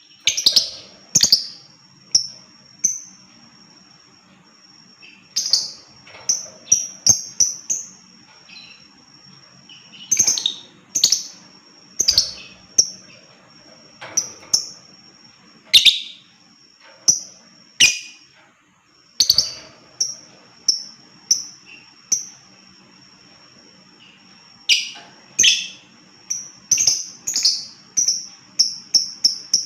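Lovebird calling: sharp, high-pitched chirps, some single and some in quick runs, with a fast run of chirps near the end.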